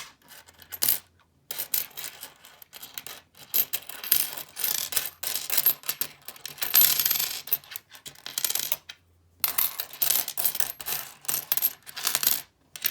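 Pennies clinking and rattling against each other and the table as a handful of coins from a roll is spread out and sorted. The rattling comes in stretches with two brief pauses.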